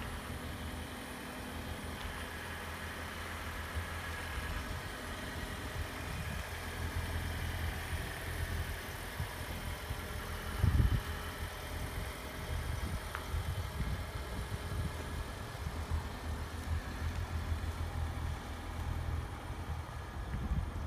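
Lexus CT 200h hybrid's 1.8-litre four-cylinder petrol engine idling steadily with a low hum. A brief thump about eleven seconds in is the loudest sound.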